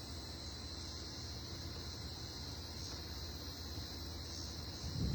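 Steady chorus of crickets and other insects chirring, high and even, over a low steady rumble. A brief low thump sounds near the end.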